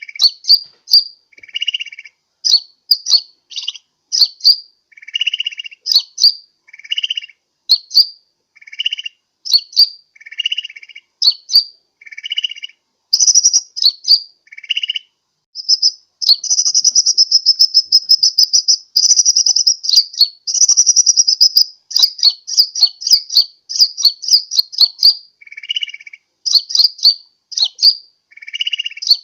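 Sunbird lure call: quick high chip notes alternating with lower, buzzier notes, repeated over and over, with a long run of rapid twittering through the middle.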